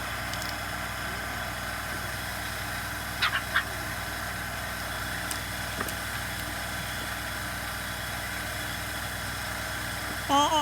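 Steady, even machine hum running in the background, with a few brief clicks about three seconds in.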